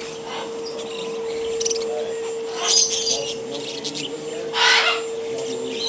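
Caged pet birds calling: scattered short chirps, with two louder harsh calls, the loudest about three-quarters through, over a steady hum.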